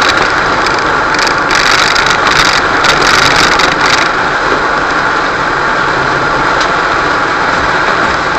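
Fiat Fiorino van driving on a wet road, heard from on board: steady engine and tyre noise with a hiss of spray, and several short louder swishes in the first half.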